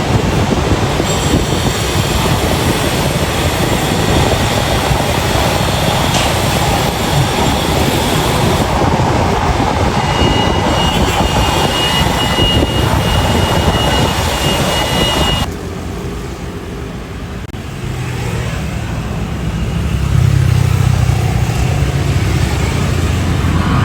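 Airbus A350-900 jet airliner's Rolls-Royce Trent XWB engines, a loud, steady jet noise. About two-thirds through it cuts off abruptly to a quieter jet engine rumble that builds again near the end.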